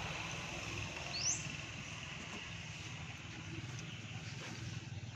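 Outdoor ambience: a steady low hum under a light hiss, with one short rising chirp, like a bird's, about a second in.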